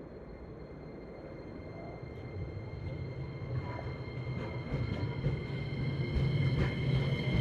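JR West 227 series 500 electric train running and growing steadily louder, with a deepening rumble, a steady high whine and clicks of the wheels over the rails from about two seconds in.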